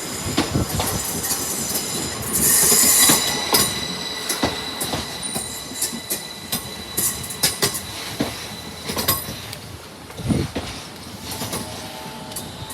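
Train wheels on the track: irregular clicks and knocks from the wheels, with a high-pitched wheel squeal throughout. The squeal is loudest from about two and a half to three and a half seconds in.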